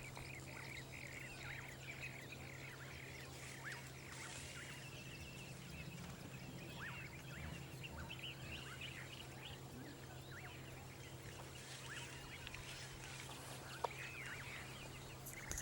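Many birds calling in a chorus of short, quick chirps and whistles, over a steady low hum.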